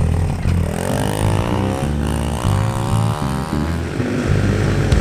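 Pit bike engine revving: its pitch climbs, drops back about two seconds in, climbs again, then settles into rougher running near the end.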